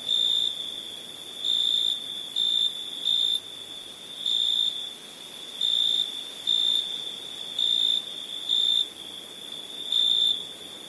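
Crickets chirping at night: one steady high-pitched trill that swells into louder chirps about once a second at uneven spacing, over a fainter high hiss.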